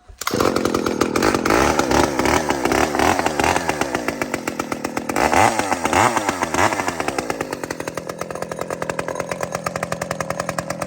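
Chainsaw running: it starts up sharply just after the start, and its engine speed swings up and down for several seconds before settling steadier near the end.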